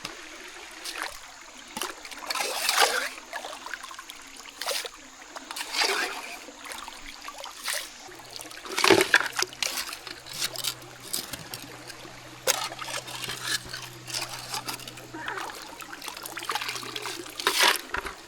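Shallow mountain creek trickling, with irregular splashes and sloshes of water being stirred and scooped by hand.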